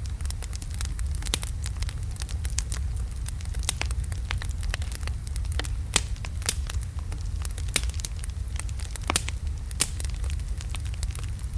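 Wood logs burning in a fireplace: a steady low rumble of flame with frequent irregular sharp crackles and pops, a few louder snaps among them.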